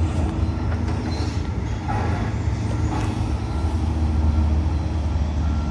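Steady low engine rumble with a few faint knocks in it.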